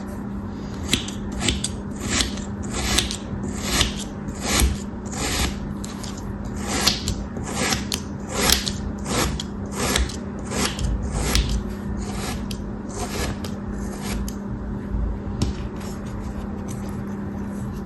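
A blade making a long run of crisp cutting strokes through a soft, crumbly block, about one every three-quarters of a second, each a short scratchy swish. The strokes stop about fifteen seconds in, over a steady low hum.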